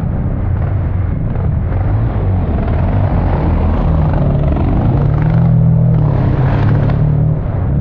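Motocross dirt bike engine running and revving, its pitch rising and falling.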